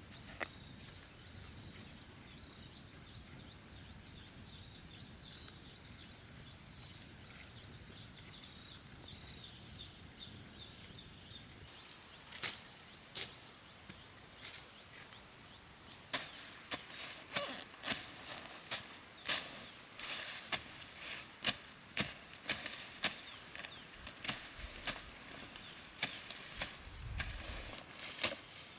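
A faint outdoor background with a steady high tone. About twelve seconds in, sharp knocks begin, and they settle into a steady run of chopping strikes, roughly one or two a second.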